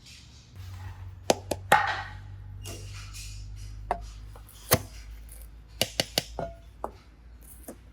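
Hands working modelling clay with small tools: a series of irregular sharp taps and clicks, several in quick succession about six seconds in, over soft rustling.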